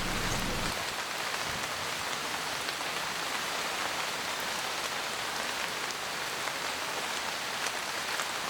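Rain falling steadily, a continuous even hiss of drops.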